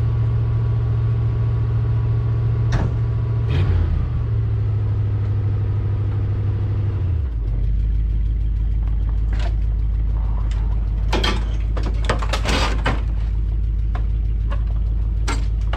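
A truck engine running steadily, its note dropping lower about seven seconds in, with scattered clanks and knocks over it.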